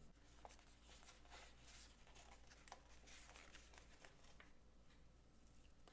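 Faint paper rustling with light irregular clicks and taps: sticker sheets being handled and paper stickers peeled off and pressed onto a sticker-by-number page.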